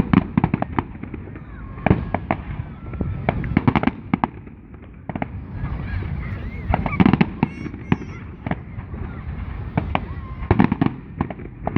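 Fireworks display: clusters of sharp bangs and crackles in several bursts, with crowd voices underneath.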